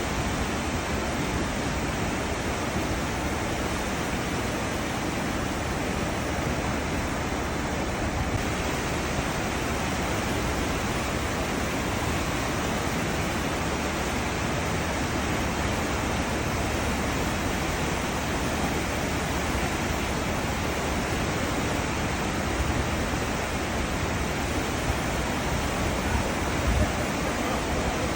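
Water churning in a cruise ship's wake: a steady, even rushing hiss with no breaks.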